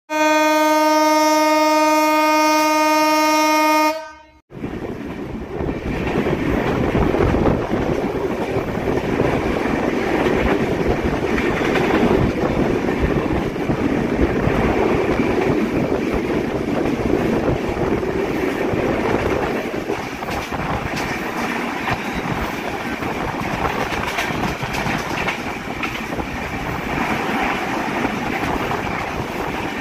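A train horn sounds one steady note for about four seconds, then cuts off abruptly. Then comes the steady, dense running noise of a fast intercity passenger train with Indian LHB coaches on broad-gauge track, heard from an open coach doorway: wheels rolling and clattering on the rails.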